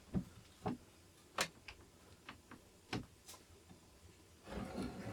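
Scattered light clicks and knocks, about a dozen at irregular spacing, from handling a wooden stick handle and tools against a log cabin door, with a brief rustle near the end.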